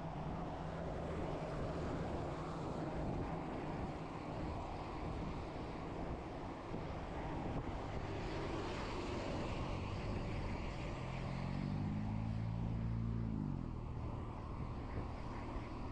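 Steady outdoor traffic noise with a low engine hum. About eleven seconds in, a motor vehicle's engine rises in pitch for about two seconds, then drops abruptly.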